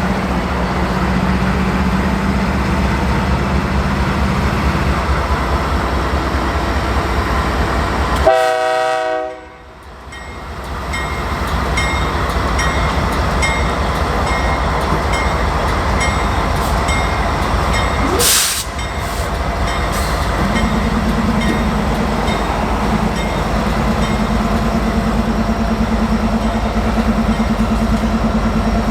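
Freight train departing: diesel locomotives running under power and tank cars rolling by. A short horn blast comes about eight seconds in, then the sound drops away briefly.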